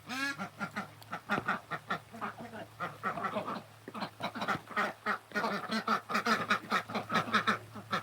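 A group of domestic ducks quacking continuously, many short calls overlapping in quick succession.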